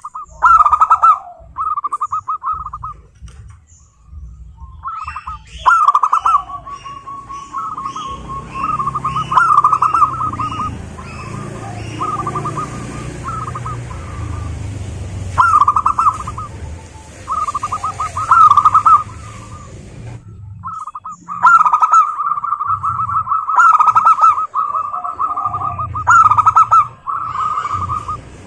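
Zebra doves (perkutut) singing: loud, repeated phrases of rapid staccato cooing notes, each phrase about a second long with short pauses between, one after another throughout.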